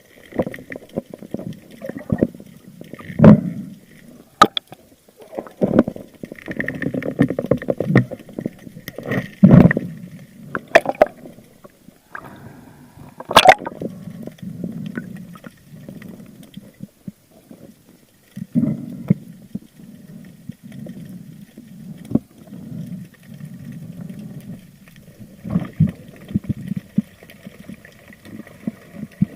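Water gurgling and sloshing around a spearfisher's camera in the sea, in irregular swells, with several sharp knocks and clicks.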